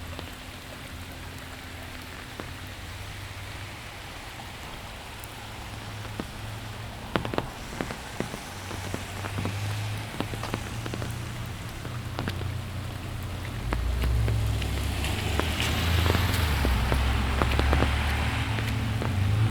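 Steady autumn rain falling on a residential street, with individual heavy drops tapping close by from about seven seconds in. Past the middle, a low rumble and a rising hiss build up: a vehicle approaching on the wet road.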